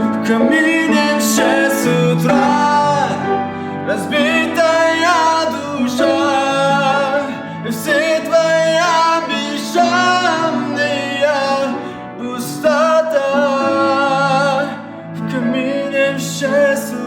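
Pop ballad: a voice singing a melody over piano and backing music.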